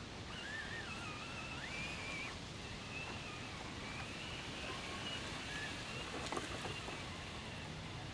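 Electric motor of a 1/10-scale RC crawler truck whining as it works stuck in swamp mud, its pitch wandering up and down with the throttle, over a faint wash of noise. A short knock about six seconds in.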